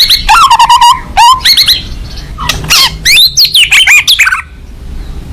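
White-rumped shama (murai batu) singing loudly in rapid, varied phrases of fast trills and sliding whistled notes, in two bouts with a short pause about two seconds in, stopping about four and a half seconds in.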